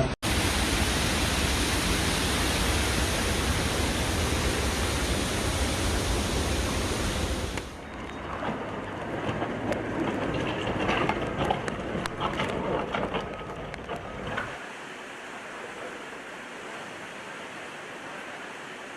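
Steady rush of flash floodwater, loud and deep for the first seven or so seconds, then cutting abruptly to a quieter, thinner rush about eight seconds in, which drops again near fifteen seconds.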